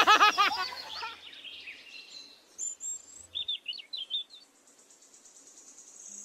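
Small bird chirping faintly: a couple of high notes and then a quick run of about five short chirps around the middle, with a faint high trill near the end.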